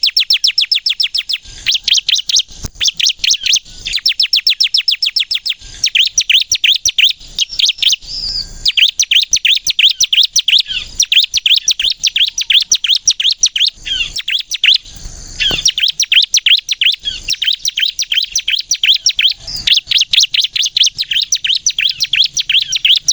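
Bar-winged prinia (ciblek) singing loudly in long, rapid-fire runs of sharp, high chirps, about ten notes a second, broken by brief pauses.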